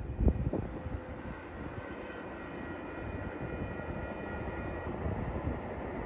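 Distant approaching train: a steady low rumble carried down the track, with faint high thin tones in the middle. A couple of brief thumps in the first second.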